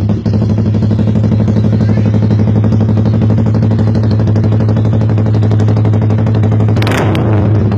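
Yamaha R15's single-cylinder engine idling steadily through an SC-Project aftermarket exhaust, with one quick throttle blip near the end.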